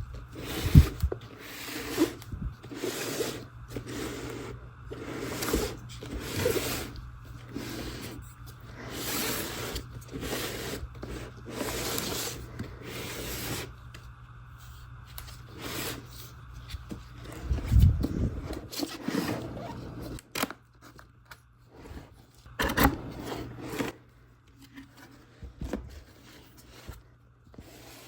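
Packaging of a die-cast model airplane box being handled and opened: repeated rubbing, scraping and tearing strokes, with a few knocks.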